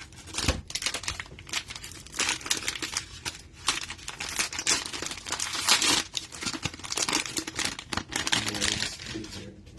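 Cellophane wrapper of a football trading-card cello pack being torn open and crinkled by hand, a dense irregular run of crackles.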